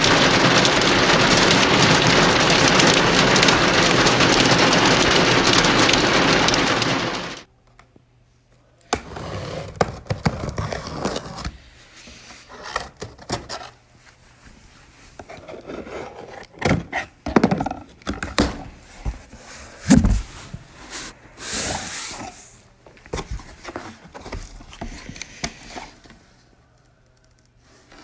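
Steady hiss of heavy rain that cuts off suddenly about seven seconds in. After a short silence come scattered knocks, thuds and rustling handling noises in a small room.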